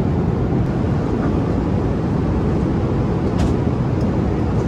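Steady in-flight cabin noise inside an Airbus A350-900 airliner: the even rumble of engines and airflow heard from an economy seat, with a brief faint click about three and a half seconds in.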